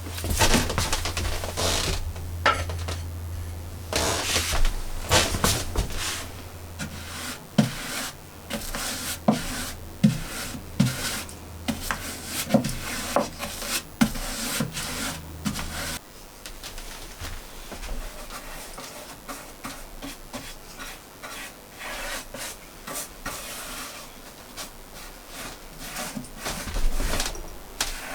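Wood being worked by hand: repeated rubbing and scraping on wood with scattered sharp knocks. A low steady hum runs under the first half and cuts off suddenly about halfway through.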